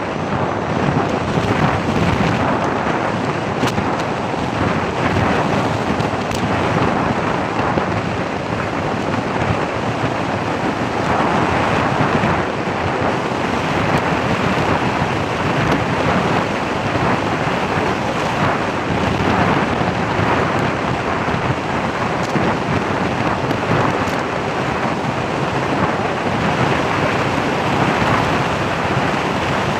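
Loud, steady rush of wind buffeting the microphone, with road noise from a moving vehicle.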